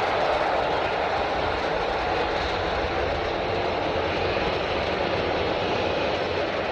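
Jet airliner engines running, a steady, even rushing noise that holds its level throughout.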